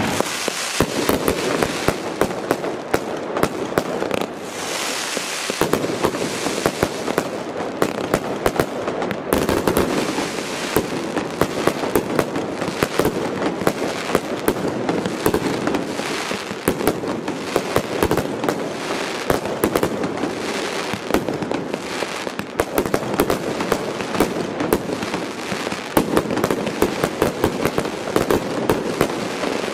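Aerial firework shells bursting in a rapid, continuous barrage: a dense run of sharp bangs and crackles with hardly a gap.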